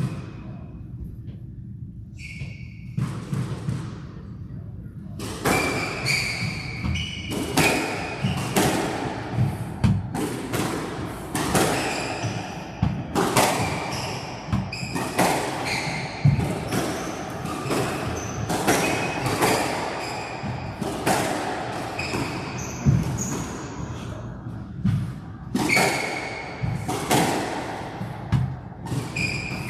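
Squash rally: the ball is struck by rackets and hits the walls in sharp smacks about once a second, with short high squeaks of court shoes on the floor between shots. The first few seconds are quieter, with only a few scattered impacts before the rally gets going.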